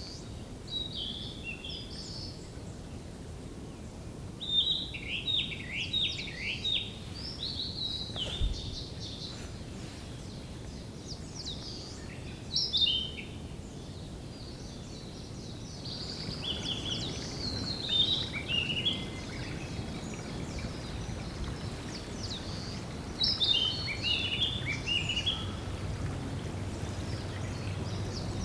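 Wild songbirds singing short, varied phrases of quick whistled notes, repeated every few seconds, over a steady low background noise.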